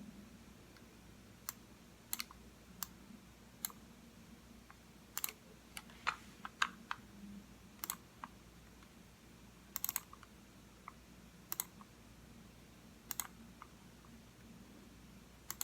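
Computer mouse clicking: single clicks and a few quick double clicks at irregular intervals of about half a second to two seconds.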